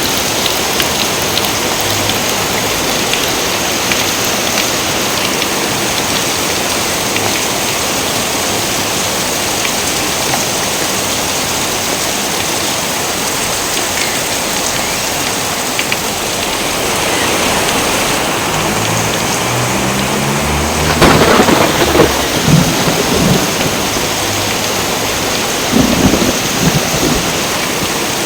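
Steady rain with thunder: a low rumble builds about two-thirds of the way in and breaks into a loud clap, and a second shorter peal follows near the end.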